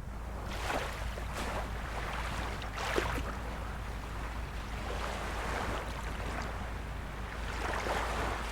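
Small waves of a calm sea lapping and splashing against the shore, with an irregular splash every second or two over a steady wash, and a steady low rumble underneath.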